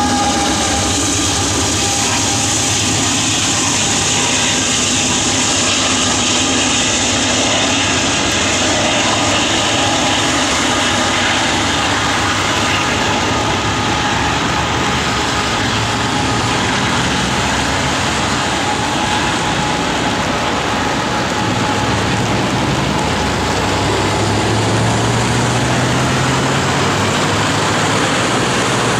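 Freight train rolling past: a steady, loud rumble of rail cars and wheels on the rails, with the hiss of heavy rain. About three-quarters of the way through, a low diesel engine note rises as the waiting Canadian Pacific locomotives throttle up.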